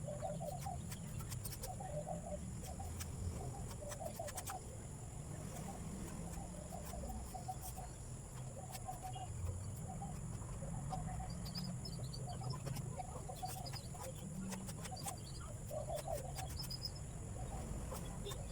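Birds calling: many short repeated calls and some small high chirps, over a low rumble and a steady high whine.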